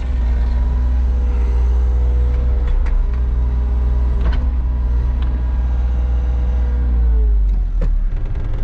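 Excavator engine running steadily, with a few sharp clanks, then slowing down to a lower idle near the end.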